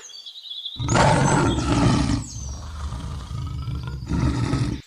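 A large animal roaring: a loud, rough call of about a second and a half starting just under a second in, a quieter low rumbling stretch, then a second shorter roar near the end that cuts off abruptly.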